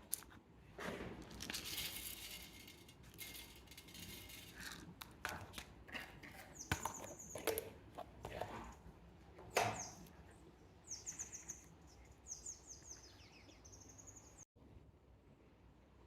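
Rustling and knocks of close handling, then small birds chirping: short high chirps in quick runs from about halfway through until near the end.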